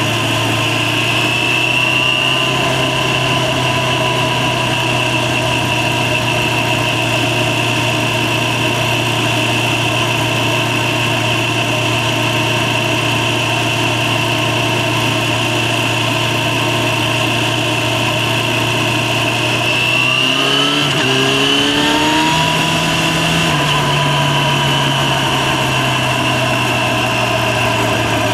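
Yamaha FZ6 inline-four motorcycle engine running at a steady pitch while cruising. About two-thirds of the way through, it accelerates: the pitch rises in quick steps through a couple of gear changes, then settles again.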